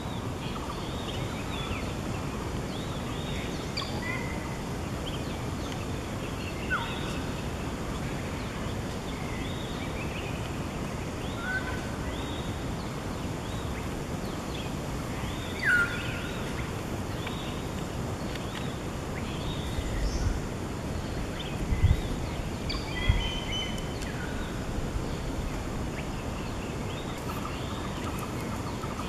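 Wild birds calling: short arched whistled notes repeat throughout over a steady hiss. About 16 seconds in there is a louder note that slides down, and a few low thumps come between about 20 and 23 seconds.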